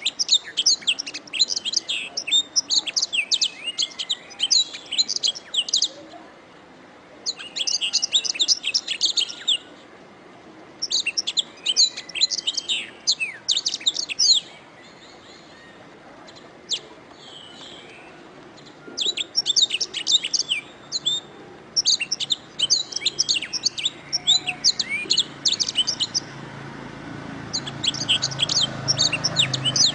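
Domestic canary singing: fast runs of high, rapid chirps and trills in phrases of a few seconds each, broken by short pauses and one longer lull near the middle.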